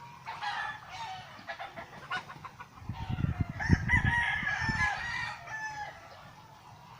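Chickens clucking, then a rooster crowing about three seconds in, one long call of roughly two and a half seconds. A low rumble runs under the crow.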